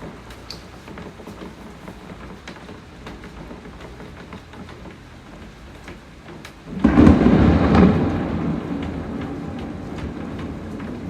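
Steady rain falling, with scattered drops ticking, and a thunderclap about seven seconds in: a sudden loud crack and rumble that slowly fades over the remaining seconds.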